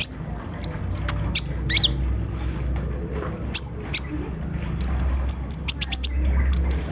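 Kolibri ninja (van Hasselt's sunbird) singing: sharp, high notes that drop steeply in pitch, scattered at first and then a quick run of them about five seconds in, over a steady low hum.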